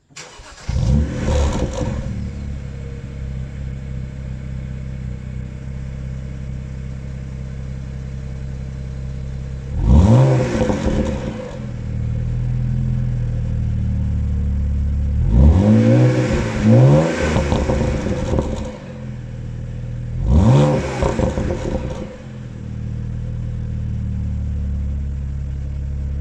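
BMW Z4 sDrive35is's twin-turbo 3.0-litre inline-six on the stock exhaust, starting up with a brief flare and settling to a steady idle. It is then revved four times, two of the revs in quick succession, each time rising in pitch and dropping back to idle.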